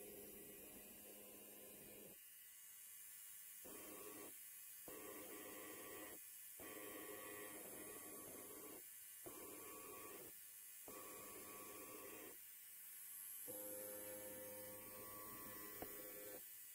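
Electric hair clipper buzzing faintly, in stretches of one to a few seconds broken by about seven short gaps.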